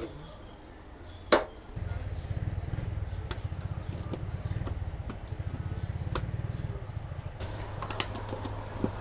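Homemade CNC router's stepper motors running with a low, rapidly pulsing hum that starts just after a sharp click about a second in and settles into a steady low hum near the end.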